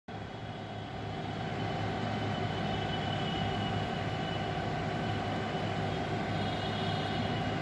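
Passenger train running along the track, a steady rumble of coaches on the rails with faint held high tones, growing a little louder over the first couple of seconds.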